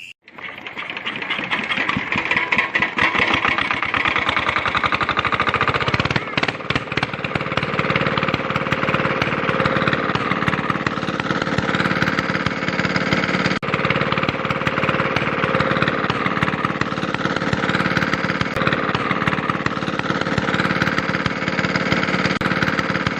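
Miniature diesel engine running fast, a rapid, even firing rattle; about six seconds in it settles into a steady run with a constant hum.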